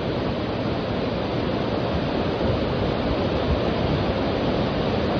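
A waterfall about 20 metres high, falling water rushing in a steady, loud, unbroken noise.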